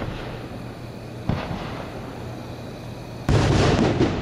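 1.3G consumer aerial fireworks going off: a sharp bang about a second in, then a much louder, denser burst about three seconds in that lasts most of a second.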